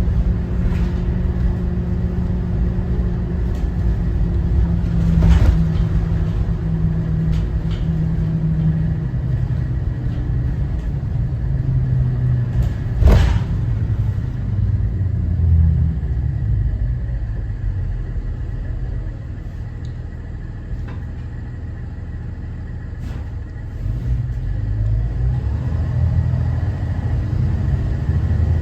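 Cummins ISB 6.7 inline-six turbo diesel of a Thomas Saf-T-Liner C2 school bus running on the road, a steady low drone with road rumble. Two sharp knocks come about 5 and 13 seconds in. The engine eases to a quieter stretch past the middle, then pulls again with rising pitch near the end.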